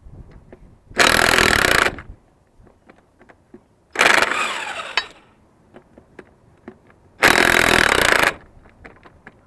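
Impact wrench run in three bursts of about a second each, with small clicks and knocks of tools and parts between them.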